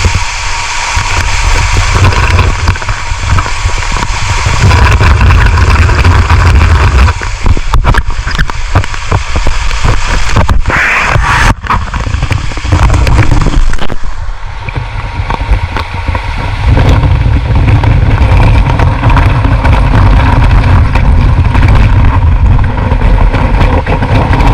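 Rushing, splashing water close on an action camera's microphone, with a heavy low rumble, and a run of knocks and bumps in the middle.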